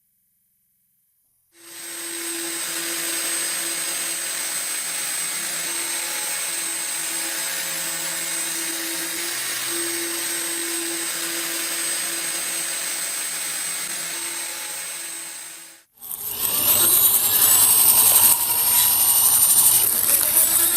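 A small electric power tool starts and runs steadily at one speed with a constant hum for about fourteen seconds. After a short break it comes back louder and rougher, the tool working against metal.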